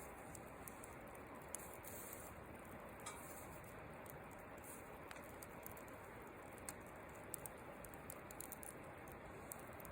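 Wood fire crackling faintly in a fire pit: irregular small sharp pops and clicks over a low steady hiss.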